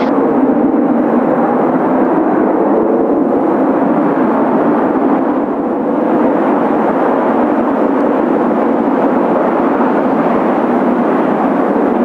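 Kawasaki T-4 jet trainers' twin turbofan engines at takeoff power, a loud, steady jet noise.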